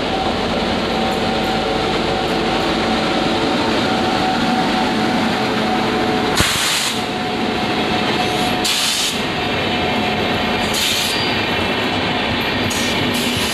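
Express train hauled by a WAP-7 electric locomotive passing close by: a steady rumble of wheels on rail with a hum. From about halfway through there are short rushes of high hiss every two seconds or so, and a sharp click at the first of them.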